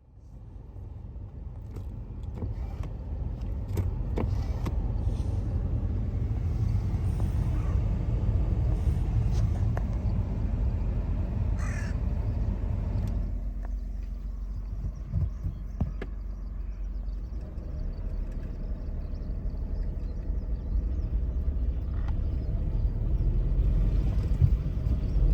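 Car engine and road noise from a car driving: a steady low rumble that builds as it pulls away, with no abnormal noises. A short high call or squeak is heard about halfway through.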